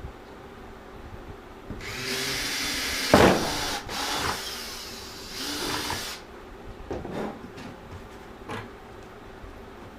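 Power drill boring a hole through the bottom of a plastic 5-gallon bucket, running for about two seconds with a sharp loud crack partway through, then a second short run. A few light knocks follow near the end.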